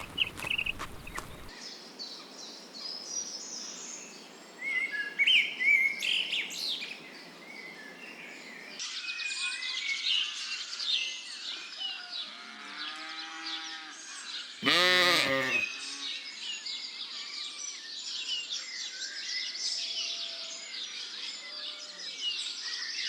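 Many small birds chirping and singing, with one loud wavering sheep bleat lasting about a second, about fifteen seconds in, and a fainter bleat just before it.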